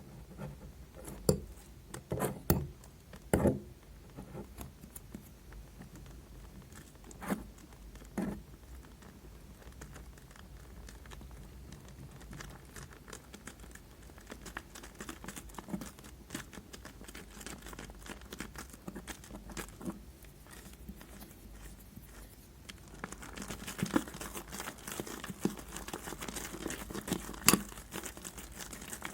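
Soap-bar slime being squished and stretched by hand: sticky crackling and small pops. A few sharper snaps come in the first seconds, and the crackling grows denser near the end.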